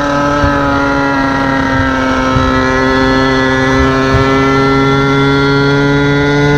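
Small two-stroke engine of a gas-powered stand-up scooter running at high revs under way, its note steady and slowly rising in pitch.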